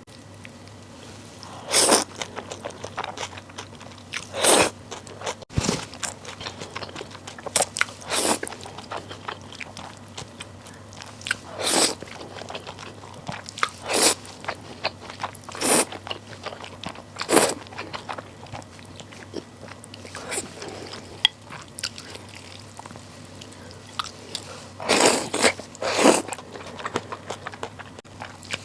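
Close-miked eating of bibim naengmyeon, spicy cold noodles: steady chewing with a loud crunchy bite every few seconds.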